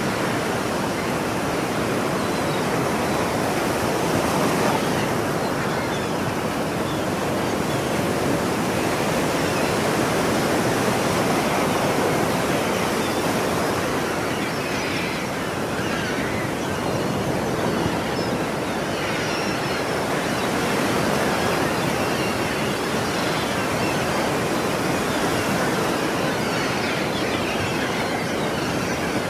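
Ocean surf: waves breaking and washing in a steady wash of noise that rises and falls slightly in loudness.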